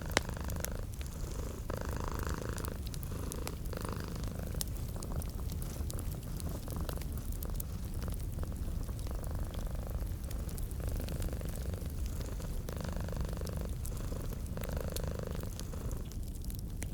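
Domestic cat purring steadily in a low, continuous rumble, with wood fire crackling in a fireplace: scattered small pops and one sharp pop just at the start.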